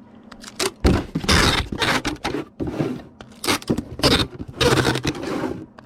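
Packages and boxes being handled on a work surface: a series of short scrapes and rustles, some with light knocks.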